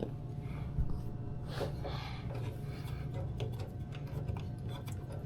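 Hand and tool work on a washing machine's drain fitting: rubbing and scattered small clicks, with one thump about a second in, over a steady low hum.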